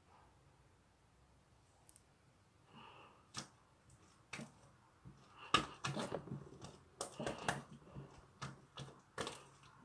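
Marbled slime being handled by hand, giving sticky clicks and pops. There are a few spaced clicks at first, then they come thick and fast from about halfway through.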